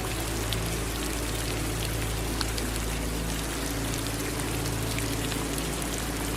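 Steady rainfall with scattered individual drop ticks, mixed with running water, over a low steady hum.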